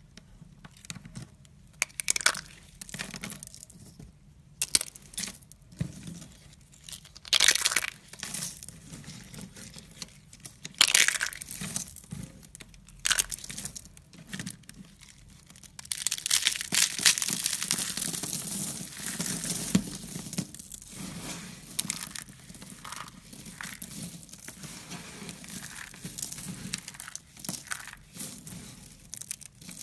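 Crinkling and crushing sounds in irregular bursts with sharp crackles, sparse at first and turning into a denser, steadier crackle about halfway through.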